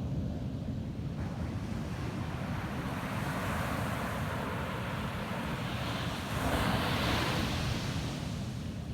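Ocean waves breaking and washing up a sandy beach, one wash swelling to its loudest about six seconds in and then easing off. A steady low rumble of wind on the microphone runs underneath.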